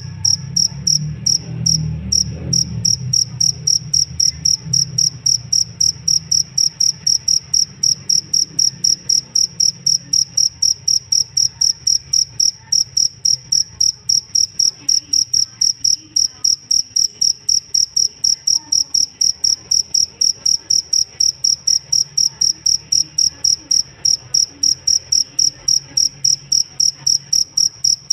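Cricket chirping steadily, a high-pitched pulse repeated about three times a second without a break. A low rumble underneath fades away over the first few seconds.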